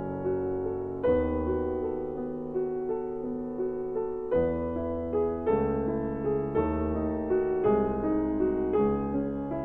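Background piano music: slow, gentle chords struck about once a second, each ringing on.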